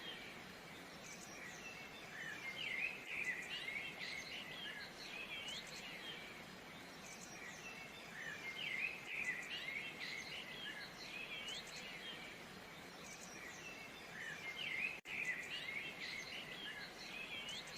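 Several small birds chirping and singing in bouts of quick, sweeping high notes over a steady faint background hiss. The sound cuts out for an instant about fifteen seconds in.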